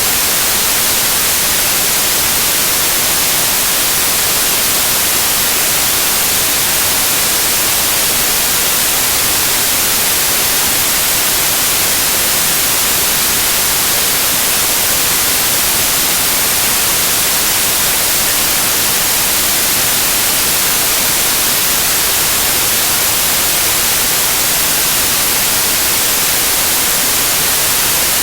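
Loud, steady white noise: an even, unchanging hiss across the whole range, strongest in the treble.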